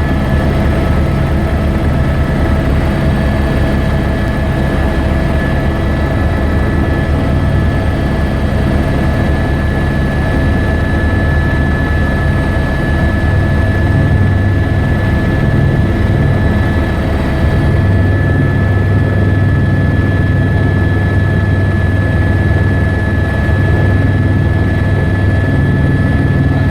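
Police helicopter in flight, heard from on board: a loud, steady drone of rotor and engine with a constant high whine over it.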